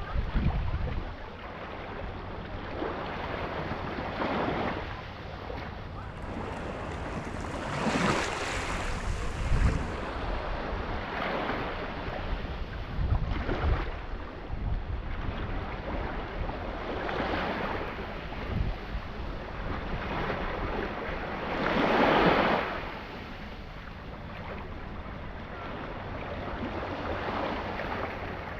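Sea waves washing, with wind buffeting the microphone. The wash swells every few seconds, loudest about 22 seconds in.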